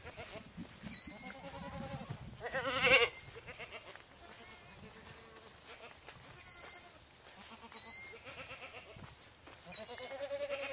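Farm animals bleating in quavering calls, about three seconds in, again around eight seconds and near the end. A bird's short high chirps repeat every second or two.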